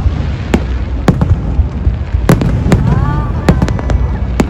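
Fireworks display: about eight sharp bangs of bursting shells, coming closer together in the second half, over a steady low rumble and the voices of a large crowd.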